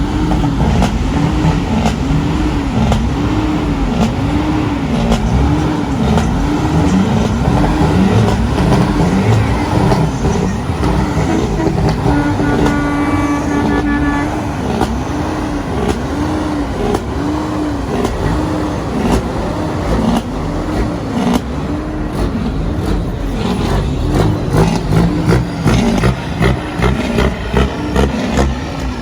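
Truck engines running loudly, with a wailing tone that rises and falls about once a second. About twelve seconds in, a horn gives a steady blast of roughly two seconds.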